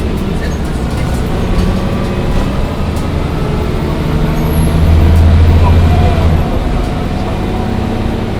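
Mercedes-Benz O405 N1 city bus diesel engine heard from inside the bus while driving. It is a steady low drone that grows louder for about two seconds past the middle, then eases off, with faint clicks and rattles over it.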